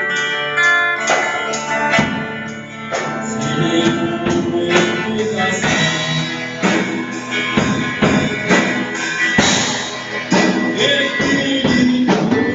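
A worship band playing an instrumental passage of a song, with drum kit hits and cymbals over guitar and sustained chords.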